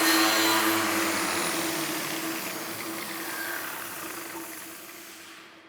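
Power buffing wheel spinning down after being switched off from buffing rust off steel, its whine falling slightly in pitch and fading steadily away over about five seconds.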